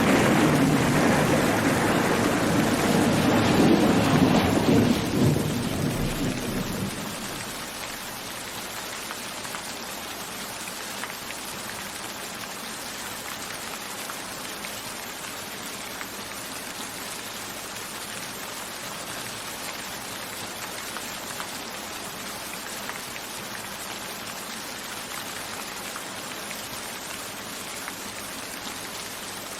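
A roll of thunder rumbling over steady rain, swelling about four seconds in and dying away by about seven seconds. After that, only the even hiss and patter of steady rain.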